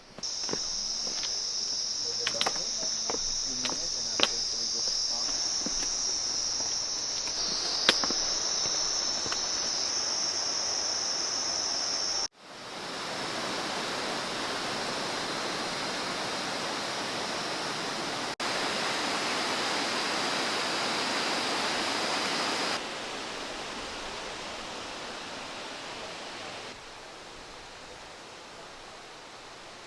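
A loud, steady, high-pitched insect chorus, with a few sharp clicks in its first eight seconds. About twelve seconds in it cuts off abruptly and an even rush of flowing water takes over, with the insects faint beneath it. The water drops in level in two steps toward the end.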